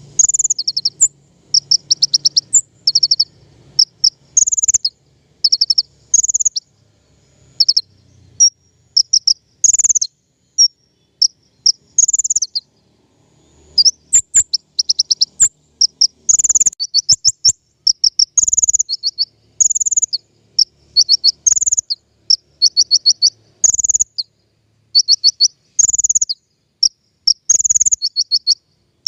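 Song of a king konin, a small songbird: short, high, rapid trilled phrases repeated every second or two, with brief pauses between bursts. It is a lure and tutor recording of the kind played to draw wild birds and to train caged songbirds.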